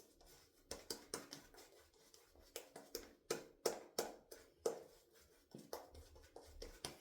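Shaving brush working a thick, pasty shaving soap lather, making a string of sticky, irregular clicks and smacks, a few a second. The lather is still dense and dry, before more water is worked in.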